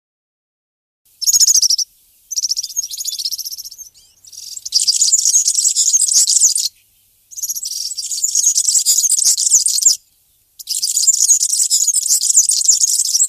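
A small songbird singing: five bursts of fast, high-pitched twittering song, each one to three seconds long, with short pauses between.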